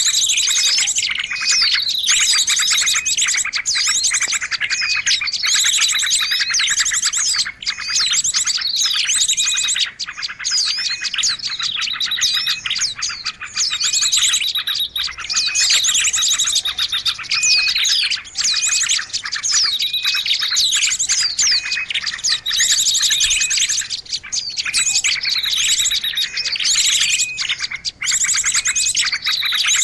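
A dense, busy mix of small songbirds calling, played as a bird-lure (pikat) recording to draw small birds in: fast high trills, short chirps and falling whistles overlap and repeat without a break.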